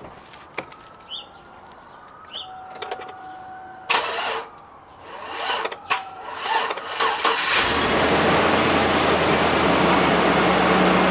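A car door thumps open about four seconds in, then the Chevrolet Suburban's 5.3-litre V8 cranks in uneven surges and catches about seven and a half seconds in, settling into a steady idle. It is starting on a jump pack over a battery run down to about 8 volts.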